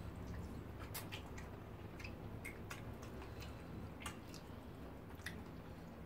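Close-miked wet eating sounds: chewing and lip smacks, with fingers squishing through soft starch and soup, heard as a dozen or so short sharp smacks and clicks at irregular intervals over a low steady hum.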